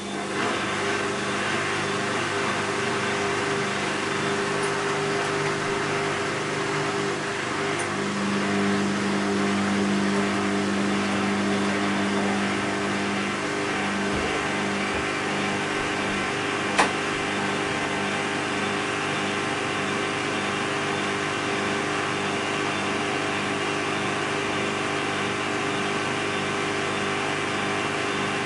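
Bosch WAB28220 front-loading washing machine running its quick wash program: a steady motor hum over the sound of the turning drum. From about halfway through, a low tone pulses roughly every two-thirds of a second, and there is a single sharp click near the end of the first two-thirds.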